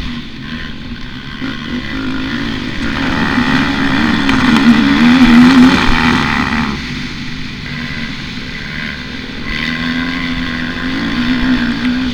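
Motocross bike engine under hard throttle: the revs climb to their loudest about five seconds in, drop away sharply just before seven seconds, then build again near the end.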